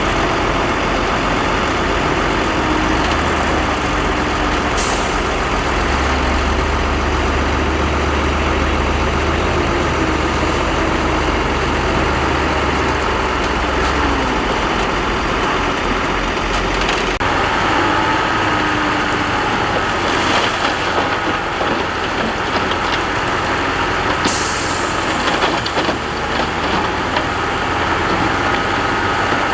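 Heavy earthmoving machinery, a bulldozer and dump trucks, with engines running steadily under load. Two sharp hisses of air, one about five seconds in and one about twenty-four seconds in.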